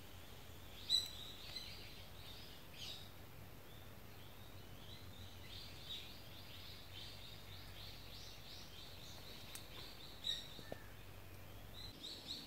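Faint bird chirps, short and high, repeated about three times a second over quiet forest background, with a sharp click about a second in and another near the end.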